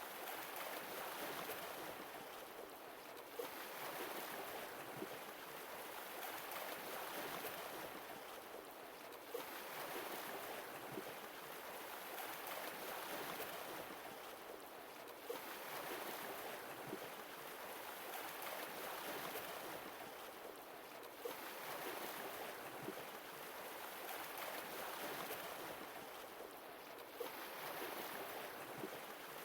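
Sea waves washing ashore, the surge swelling and easing about every six seconds, with a few small sharp clicks in between.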